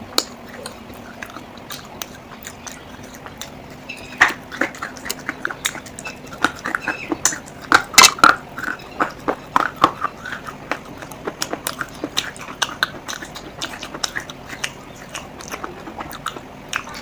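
Dry baked clay being crunched and cracked: a dense, irregular run of crisp snaps and crackles, busiest and loudest in the middle.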